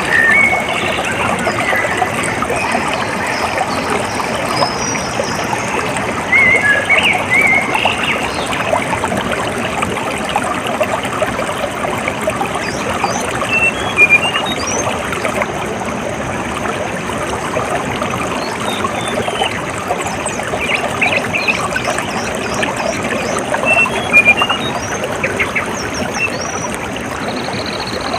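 Water trickling and pouring steadily, like a small stream or runoff channel, with short bird chirps breaking in now and then.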